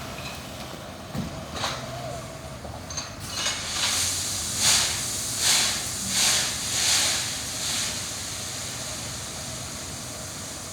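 Dump truck engines running, with a series of about five short compressed-air hisses a little under a second apart from a truck's air system, the loudest sounds here, preceded by a couple of clicks.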